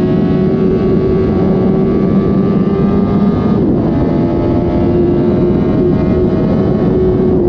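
Suzuki GSX-R1000 K7's inline-four engine running through its stock factory exhaust under way, its pitch climbing slowly. It dips briefly about three and a half seconds in, then runs on at a steady pitch.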